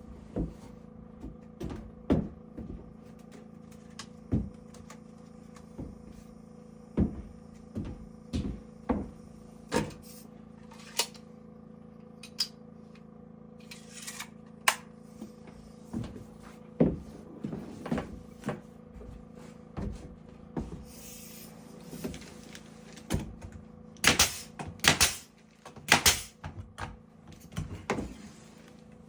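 Irregular wooden knocks and clatters as boards are handled, set in place and tapped during carpentry work. The loudest cluster comes near the end. A faint steady hum runs underneath.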